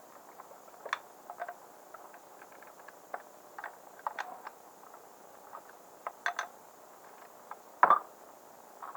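Scattered light clicks and taps of small metal and plastic carburetor parts and tools being handled during reassembly, with one louder knock near the end.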